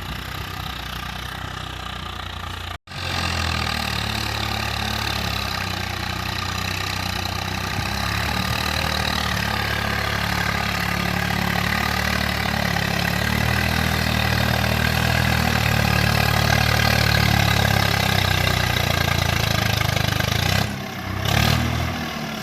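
Swaraj 855 FE tractor's diesel engine running steadily under load while pulling a seven-tine chisel plough, its rpm pulled down by the load. The sound cuts out for an instant about three seconds in and dips briefly near the end.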